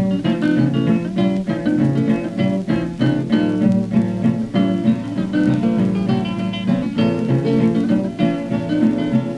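Acoustic blues guitar music: an instrumental guitar break of many quickly picked notes, with no singing.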